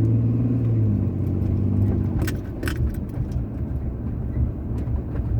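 Car engine hum and road noise heard inside the cabin while driving, with two brief metallic jingles about two and a half seconds in.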